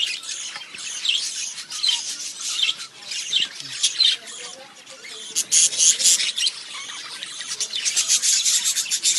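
Budgerigars chirping and chattering: a run of short high chirps, thickening into busy bursts of chatter about halfway through and again near the end.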